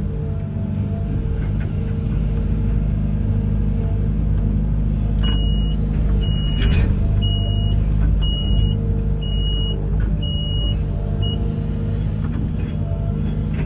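Amphibious excavator's diesel engine running steadily. From about a third of the way in, a high-pitched warning alarm beeps about once a second, six or seven times.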